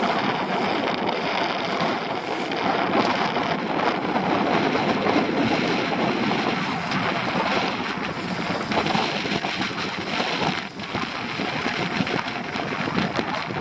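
Steady rushing wind noise on the microphone, with no break in it, as the wind picks up over the open water.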